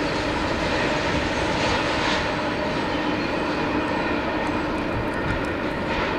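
Double-stack intermodal freight train's well cars rolling away along the track: a steady noise of wheels on rail, with a few light ticks in the second half.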